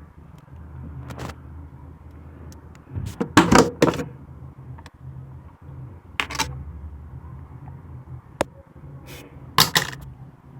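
Scattered clicks, knocks and clatter of tools and parts being handled while a washing machine is taken apart. The loudest clatter is about three and a half seconds in, with another burst near the end, and a low steady hum runs underneath.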